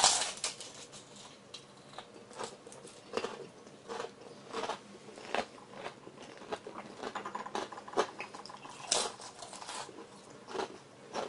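A crisp deep-fried wonton being bitten and chewed: a loud crunching bite at the start, then irregular crunchy chewing.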